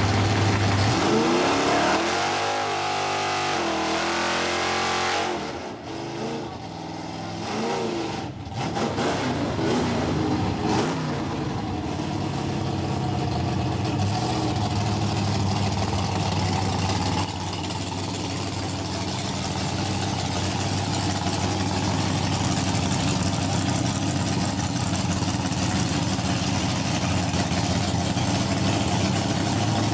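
Drag-race Camaro's 350 small-block Chevy V8 revved up and down in short blips for about the first ten seconds, then idling steadily for the rest. The revs begin to climb right at the end.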